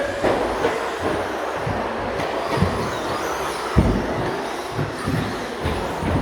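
Radio-controlled stadium trucks racing: a steady rushing mix of motor whine and tyre noise, broken by short low thumps, the loudest about four seconds in.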